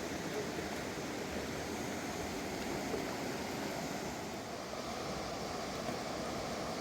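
Fast mountain river rushing over rocks, a steady, unbroken rush of water.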